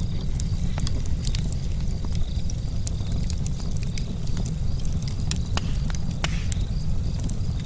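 Charcoal campfire crackling, with irregular sharp pops and ticks over a steady low rumble.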